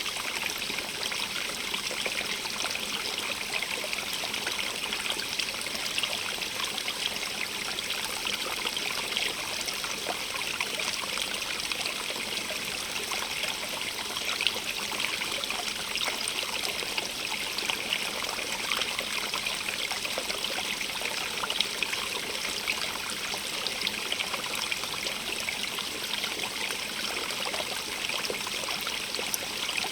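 Small stream running and trickling over stones, a steady splashing hiss with fine droplet patter.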